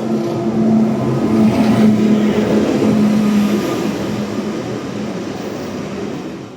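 A vehicle running: a loud, steady rumble with a low hum, which cuts off abruptly at the end.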